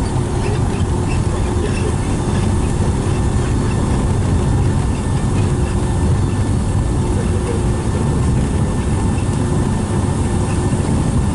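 Steady cabin noise of a Boeing 757-200 on the ground after landing: a constant low rumble of engines, airflow and wheels with no change in level.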